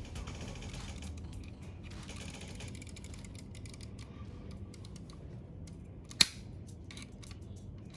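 Mechanical clicking and ticking over a low hum, with one sharp click about six seconds in.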